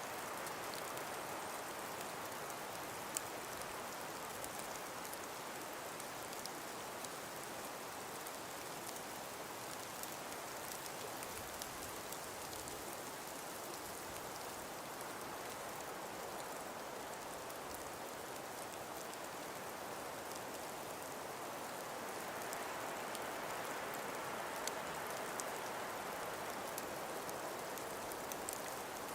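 Calm winter breeze through frost-covered forest trees: a steady, even rushing hiss that swells slightly in the last few seconds, with faint light ticks scattered through it.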